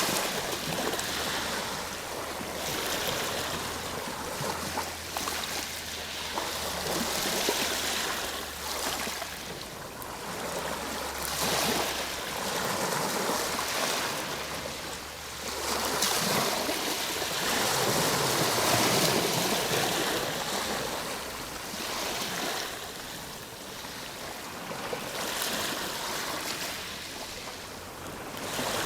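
Ocean waves breaking and washing on the shore, the surf swelling and falling back every few seconds.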